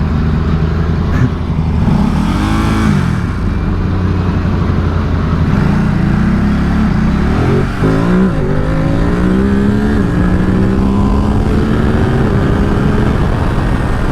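Ducati Supersport 950 S's 937 cc L-twin engine accelerating. Its pitch rises and falls about two seconds in, climbs from about six seconds, drops sharply at an upshift about eight seconds in, then climbs slowly again, over a steady low engine drone.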